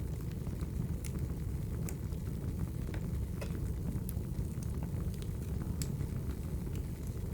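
Logs burning in a fireplace: a steady low rumble of the flames with scattered sharp crackles and pops from the wood, a few every second.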